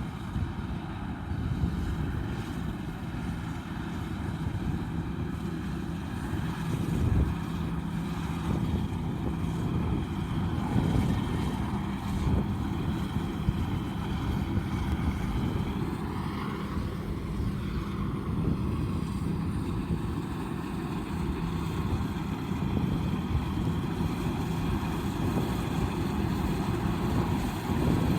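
Combine harvester running steadily in the field, its engine drone mixed with the noise of the machinery.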